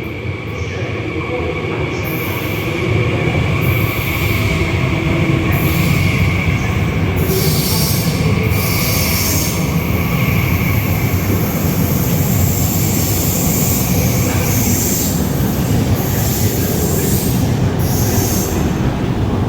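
High-speed train moving along the platform, wheels squealing with a steady high-pitched squeal over the train's rumble, with repeated bursts of high hiss. It grows louder about three seconds in and stays loud.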